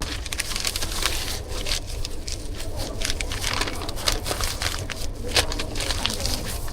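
Crinkling and scraping of a portion of glutinous rice and side dishes being scooped and packed at a street stall: a busy run of many small crackles and scrapes.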